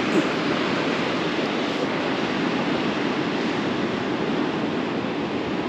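Sea surf breaking and washing on the beach: a steady, unbroken rush of noise.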